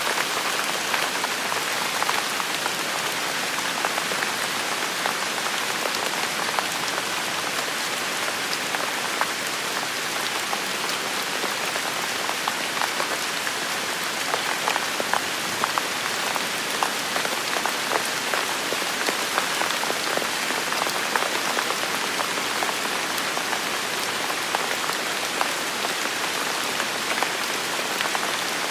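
Steady rain falling on a hard surface: an even hiss with many individual drops ticking through it.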